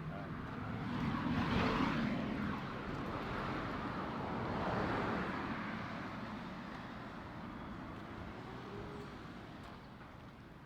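Road traffic passing on a street: two vehicles go by, one about a second and a half in and another about five seconds in. The rushing noise then fades away.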